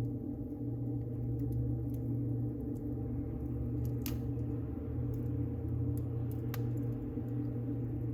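Wood fire burning in a fireplace: a steady low rumble with scattered small crackles, and two sharper pops, one about halfway through and another a little later.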